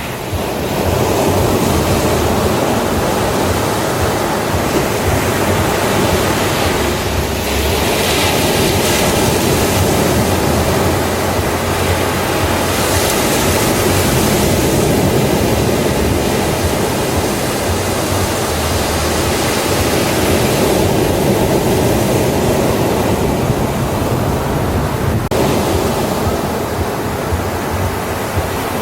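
Ocean surf on a beach: a continuous rush of waves breaking and washing in, swelling brighter about eight seconds in and again a few seconds later.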